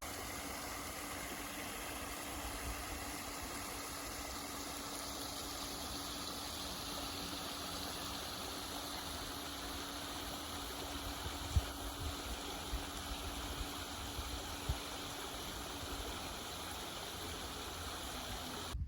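A steady rushing noise with a faint low hum under it, and a few soft thumps in the second half.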